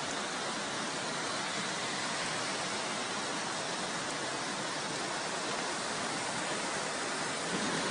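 Steady, even rushing of water without a break: the noise of a flood or heavy downpour.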